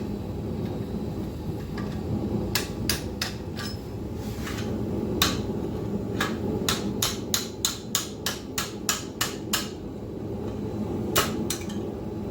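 Blacksmith's hand hammer striking steel on an anvil: a run of sharp, ringing blows, a few spaced ones first, then a quick series of about three a second in the middle, and two more near the end, over a steady low hum.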